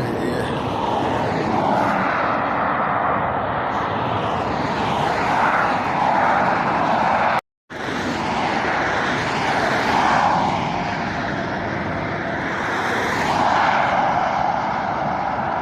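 Road traffic passing at speed: steady tyre and engine noise that swells as vehicles go by, cutting out abruptly for a moment about seven and a half seconds in.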